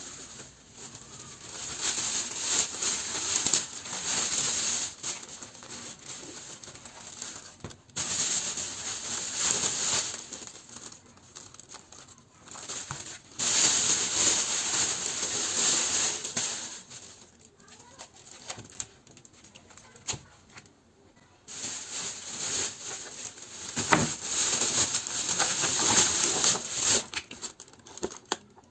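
Crinkling and rustling of packaging being handled, in several short stretches broken by abrupt cuts, with an occasional sharper knock.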